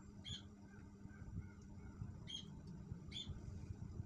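Three short, high chirps of a small bird, one near the start and two more two and three seconds in, over a faint steady low hum.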